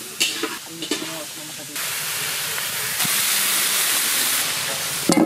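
Pieces of pumpkin, cauliflower and eggplant sizzling as they fry in oil in a wok: a steady hiss that starts abruptly a couple of seconds in. A few light knocks come before it and a clatter near the end.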